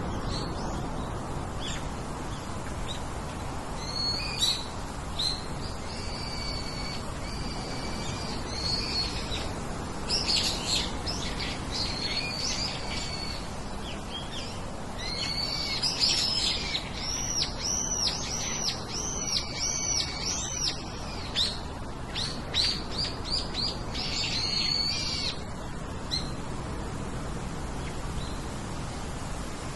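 Several birds chirping and singing, with short, quick high calls that come thickest through the middle stretch and thin out near the end, over a steady background hiss.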